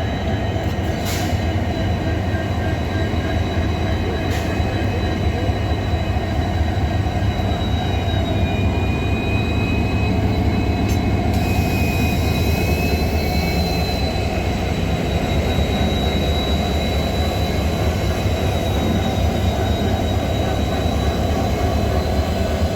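Heavy diesel locomotive running steadily on the rails with a deep constant rumble. A thin high wheel squeal holds throughout, a second squeal tone joins for a few seconds in the middle, and there are two short clicks in the first few seconds.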